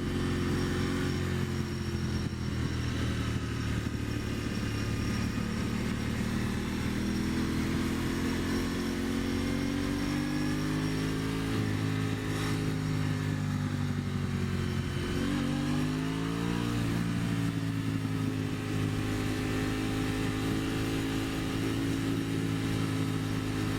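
2023 Aprilia Tuono 660's parallel-twin engine pulling on the road, its pitch slowly rising and easing with the throttle, with a quick dip and climb in revs about fifteen seconds in, like a gear change. Wind rushing past underneath.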